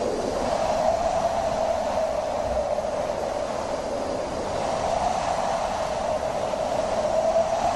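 Wind blowing steadily with a hollow, moaning tone whose pitch slowly wavers, rising slightly about a second in and again near the end.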